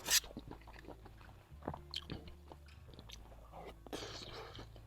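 A person chewing a mouthful of food close by, with soft crunches and small wet mouth clicks. A short, sharper noise comes just after the start.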